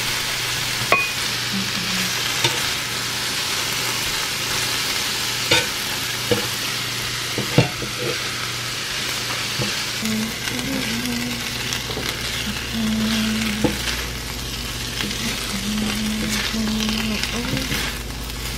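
Sliced green peppers and onions sizzling on a hot cast-iron griddle while they are stirred and tossed with a metal slotted spatula and a wooden spoon. The utensils knock against the pan a few times, sharply.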